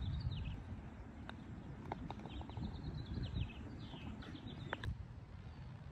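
A songbird singing rapid runs of short repeated high notes, twice, over a low background rumble, with a few faint light clicks.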